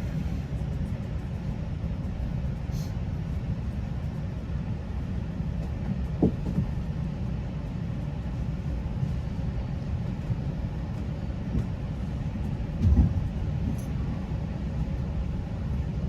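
Steady low rumble of a GO Transit commuter train running, heard from inside a passenger coach, with a short knock about six seconds in and a louder thump about thirteen seconds in.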